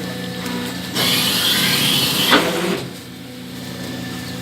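Hydraulic baling press's motor and pump humming steadily. About a second in, a loud rushing hiss lasts about two seconds and ends with a sharp clack.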